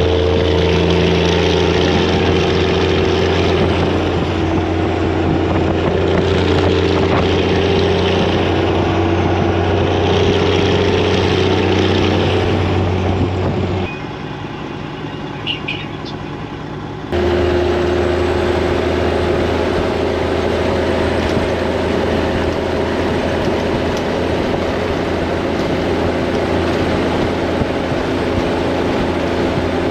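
Semi truck's Detroit diesel engine running steadily with a deep, even drone. About halfway through it drops away abruptly for a few seconds, with a few light clicks, then comes back much the same.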